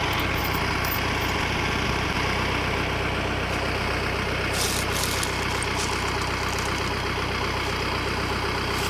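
Tractor engine idling steadily, with a couple of brief clicks about halfway through.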